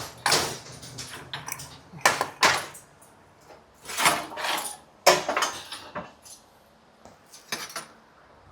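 Metal hardware and containers being handled and set down, a run of irregular clinks and clatters with the loudest crashes about two, four and five seconds in.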